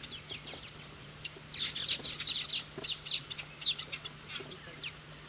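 Weaver birds chirping: rapid clusters of short, high, falling chirps with brief gaps between them.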